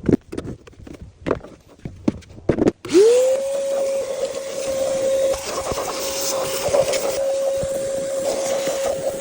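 A few clicks and knocks, then about three seconds in an electric pressure washer motor starts. It spins up quickly to a steady whine and runs on with a hiss of spraying water.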